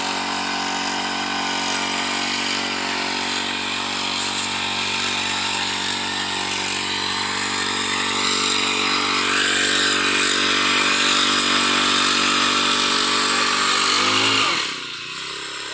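Small petrol engine of a 25-litre sprayer pump running steadily at speed while spraying under pressure, with a high hiss over the engine note. About fourteen seconds in, the engine slows and drops in pitch and loudness.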